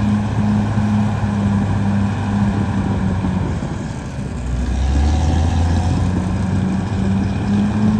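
Caterpillar D6R XL bulldozer's diesel engine running steadily. About four seconds in, its note drops to a deeper tone for a couple of seconds, then returns to the earlier pulsing pitch.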